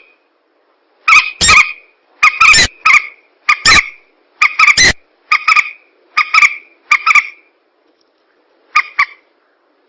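Recorded lure call of mandar rails (swamp birds): short, loud, pitched two-note calls repeated about once a second. After a pause of about a second and a half near the end comes one more pair.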